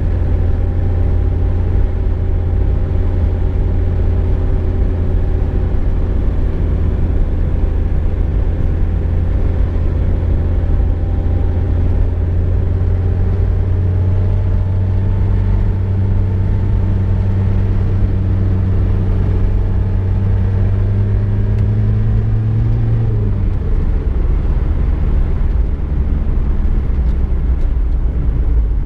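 Cabin sound of a VW Golf II on the move: a steady low engine drone over road rumble. The engine note climbs slowly, then drops abruptly about three quarters of the way through.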